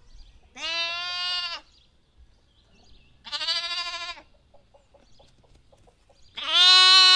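A lamb bleating three times, each bleat about a second long and held at a steady pitch, the last one the loudest.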